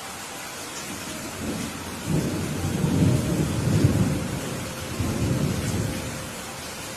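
Steady rain falling, with a rolling rumble of thunder that builds about two seconds in, swells twice and dies away near the end.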